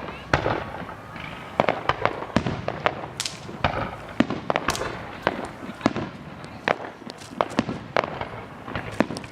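Fireworks going off: an irregular run of sharp bangs and pops, several a second, over a continuous crackle.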